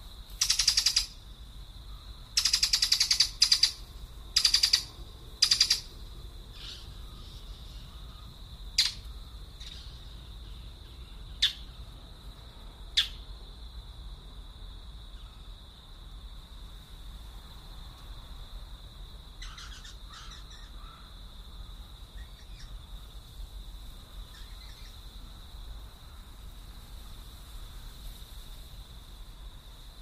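Birds calling: a quick run of loud, harsh, raspy calls in the first few seconds, then three short, sharp single notes spaced a couple of seconds apart, and fainter harsh calls about twenty seconds in. A steady high-pitched tone runs underneath.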